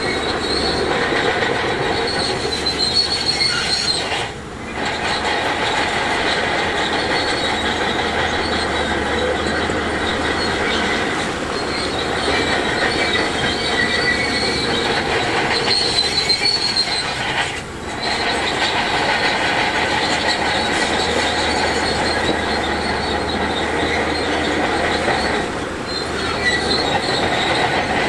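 Heavy earthmoving machinery running steadily, with high metallic squealing that comes and goes over the engine noise. The sound dips briefly three times.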